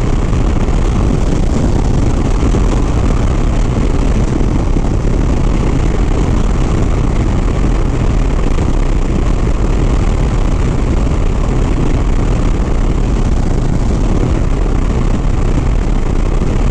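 Harley-Davidson Sport Glide's V-twin engine running steadily at highway cruising speed in top gear, under steady wind and road noise.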